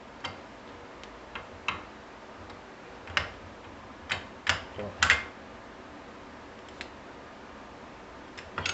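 Scattered small clicks and knocks of metal starter-motor parts being handled, about eight in all, the loudest a few around four to five seconds in, as a part is tried in a tight new bushing.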